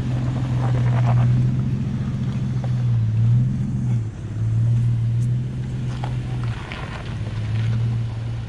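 4x4 vehicle's engine running at low revs as it crawls slowly down a steep drop, its note sagging and picking up again a few times.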